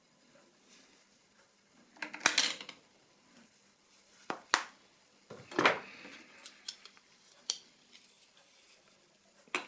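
Small hard parts and tools being handled and set down on a workbench: a few separate clattering knocks and sharp clicks.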